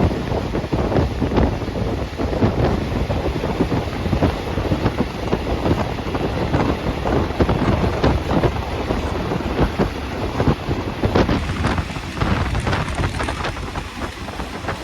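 A moving passenger train running: a steady low rumble with constant rattling and clatter, and wind buffeting the microphone.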